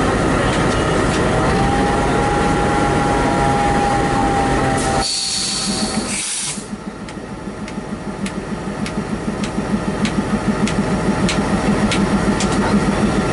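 Locomotive running beside coupled coaches, with a short burst of air hiss about five seconds in, as from a brake pipe connection. After that, a regular pulsing with light clicks, a little under twice a second, growing louder.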